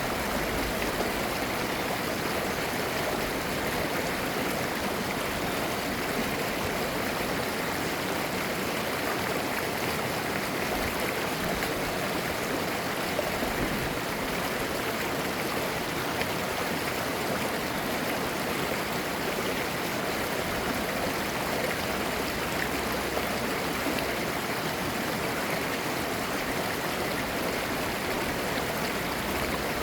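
Mountain stream flowing over rocks, a steady burbling rush of clear water.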